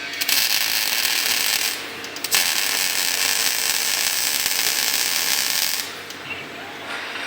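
Robotic arc welder's arc crackling and hissing in two runs: one stops about a second and a half in, and after a short gap the arc strikes again and runs for about three and a half seconds before cutting out, leaving a fainter hiss.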